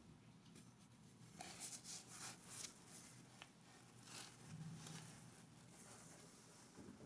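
Near silence: faint room tone with a low hum and a few soft, scattered crackles in the first half, and no thunder.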